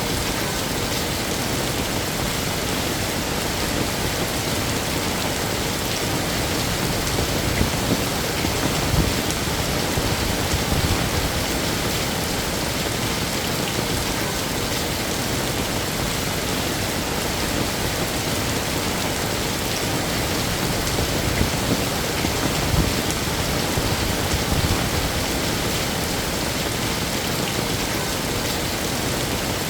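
Heavy rain falling steadily as an even, unbroken hiss, with two short louder low swells, about a third of the way in and again past the middle.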